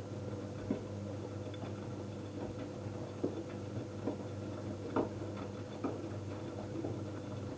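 Electrolux EWF washing machine running: a steady motor hum with light, irregular clicks and knocks every second or so.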